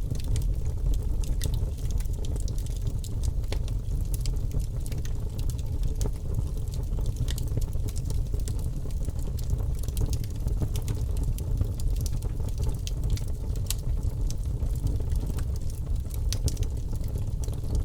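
Wood fire burning in a fireplace: a steady low rumble of flame under frequent small crackles and pops of the burning logs.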